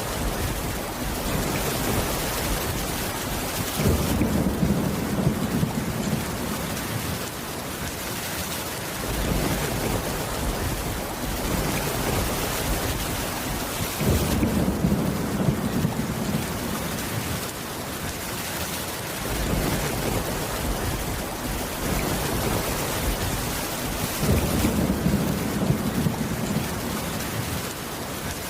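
Steady rain on a wooden cabin roof, with low rumbles of thunder swelling about every ten seconds, three times, each lasting a few seconds.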